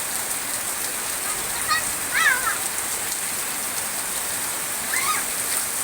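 Heavy downpour: rain pouring down in a steady, dense hiss.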